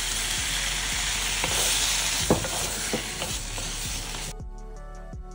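Cauliflower frying in hot oil in a pot, sizzling hard just after a little water has been poured in, with a wooden spatula knocking and scraping against the pot as it is stirred. The sizzle cuts off suddenly about four seconds in, leaving only faint steady tones.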